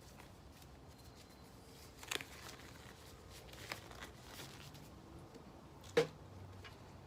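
Gloves being pulled onto the hands: faint rustling with a few short snaps, the loudest about six seconds in.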